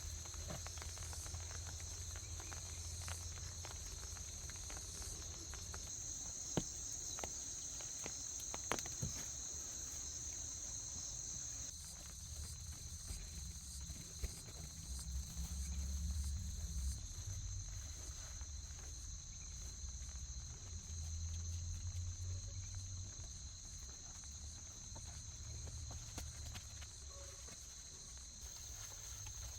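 A steady, high-pitched chorus of rainforest insects trilling without pause. A few sharp clicks or knocks sound over it in the first half.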